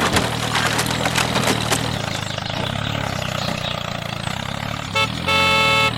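Small tractor engine running steadily with a rattling chug. About five seconds in a horn gives a short beep, then a louder honk of about half a second.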